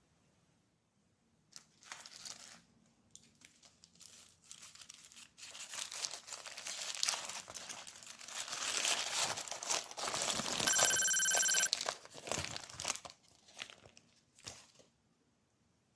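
Paper and plastic packaging crinkling and tearing in irregular bursts, heaviest in the middle. A short electronic ringing tone sounds for about a second partway through.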